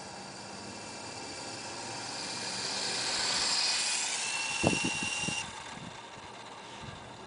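Electric motor and rotors of a large coaxial RC helicopter whirring steadily, growing louder toward the middle, with a few sharp knocks just before five seconds in; the whir then drops away abruptly.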